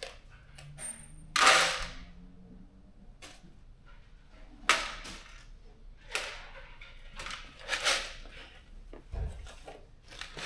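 Steel bolts clinking and clattering as they are picked out of bins and dropped into kit compartments: several short metallic clatters with quiet between, the loudest about a second and a half in, and a dull thump near the end.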